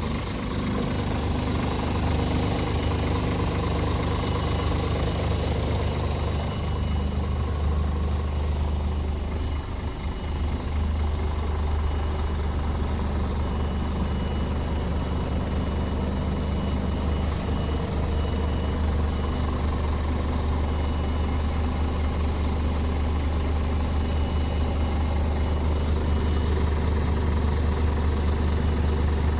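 Scania R450 tractor unit's 13-litre inline-six diesel idling steadily, a constant low hum with no revving.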